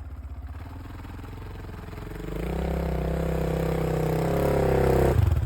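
Enduro motorcycle engine running at low revs, then about two seconds in opening up and pulling under throttle with slowly rising pitch, before the revs drop off just before the end.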